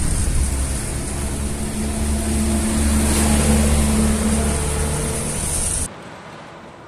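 A motor vehicle's engine hums steadily under a loud hiss of noise. The sound stops abruptly about six seconds in, leaving a much quieter background.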